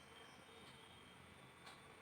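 Near silence: faint room tone and recording hiss.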